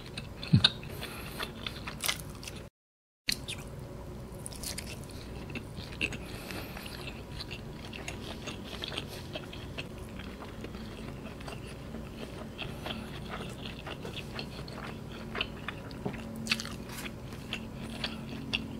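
Close-up mouth sounds of a person biting and chewing teriyaki-glazed chicken balls (boba ayam), with small crunches scattered throughout. The sound briefly cuts out to silence about three seconds in.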